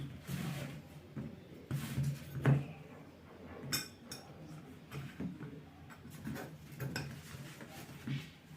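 Light clinks, clicks and knocks of hard objects being handled, coming irregularly, with brief rustling between them.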